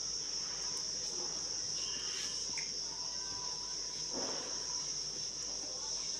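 Crickets trilling in one continuous, steady high-pitched chorus, with a few faint small sounds under it.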